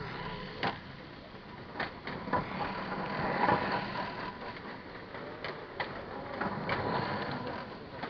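Small electric motors and gear trains of 1:43-scale Kyosho dNaNo RC cars whining as they race on the track, swelling to their loudest around the middle, with several sharp clicks scattered through.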